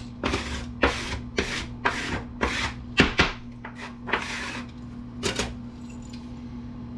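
Rhythmic rasping rub strokes, about two a second, as something is rubbed or scraped back and forth against a surface; they stop about four and a half seconds in, with a last pair of strokes just after five seconds.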